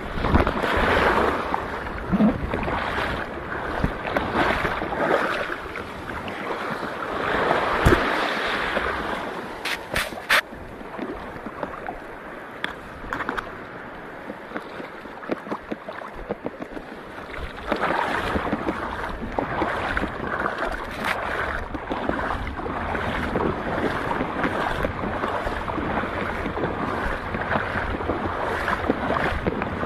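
Water sloshing and splashing in repeated surges, with wind buffeting the microphone.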